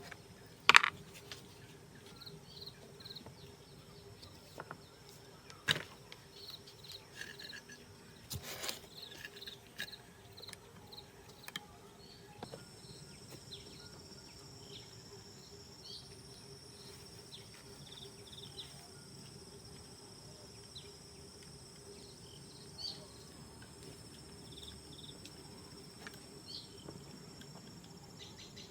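Insects chirping steadily, with short repeated chirps and a high continuous whine joining about halfway through. A few sharp knocks or clicks of something being handled stand out in the first ten seconds, the loudest about a second in.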